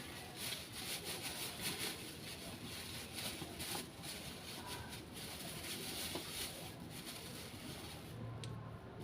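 Irregular rubbing and scraping strokes, continuing throughout, with a few faint clicks.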